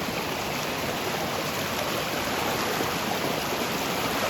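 A forest stream flowing over rocks: a steady rush of water.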